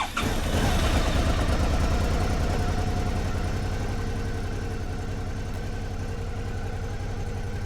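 Suzuki V-Strom motorcycle's V-twin engine running at idle, with a steady low rumble. It is slightly louder for the first couple of seconds, then settles.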